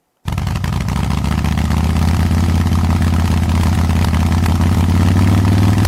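Motorcycle engine running steadily with a deep, even hum, its pitch creeping up slightly near the end.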